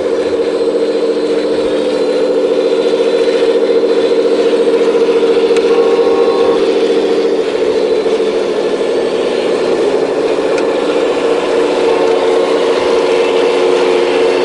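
Diesel engine of a heavy construction machine running steadily under work, its pitch shifting about halfway through.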